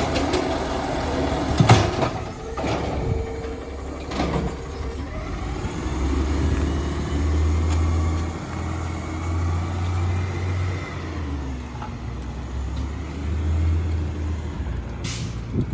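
Battle Motors garbage truck with an Amrep automated side loader body, working nearby. A few sharp knocks come in the first four seconds, then a deep rumble swells in the middle and fades before the end.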